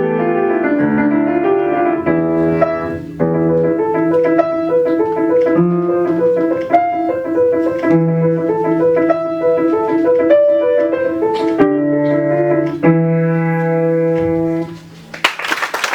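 Solo piano playing a melody over held bass notes, closing on a sustained final chord. Applause breaks out just before the end.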